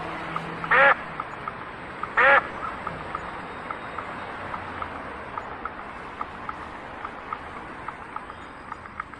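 Two short, loud animal calls about a second and a half apart, over a run of faint, quick chirping ticks that goes on throughout.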